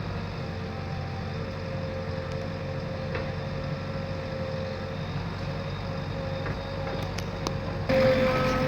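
A heavy-vehicle engine running steadily with a constant hum. It gets suddenly louder near the end.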